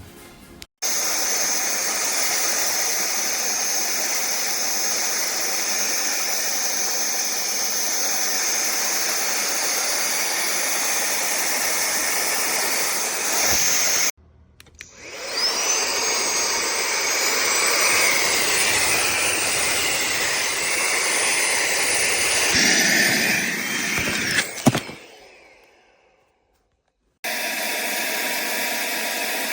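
Cordless handheld vacuum cleaner with a brushless motor running with a steady high whine over rushing air. It cuts off abruptly about halfway, starts again with a rising whine, winds down and stops, and then runs again near the end.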